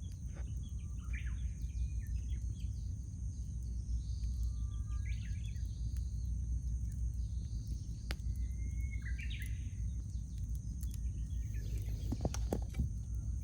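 Birds calling in the background, three short calls each starting with a flat whistle, over the scattered light crackle of a wood campfire and a steady low rumble. A few louder knocks come near the end.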